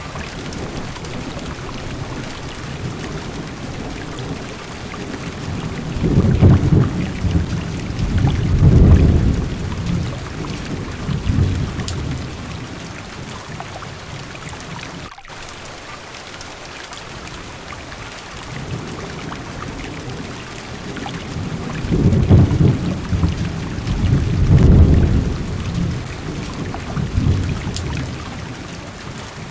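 Heavy rain falling steadily on a car's windows, with two rolls of thunder: one starting about six seconds in and another about twenty-two seconds in, each rumbling low for several seconds with two swells.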